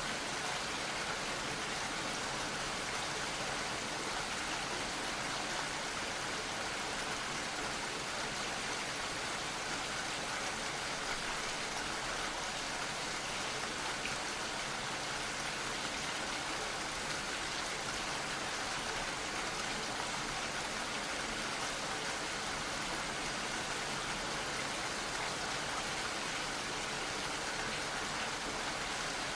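Steady gentle rain falling, an even hiss of many small drops.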